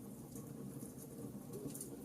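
Wood fire burning with a steady low rumble and scattered sharp crackles, a few pops close together near the end.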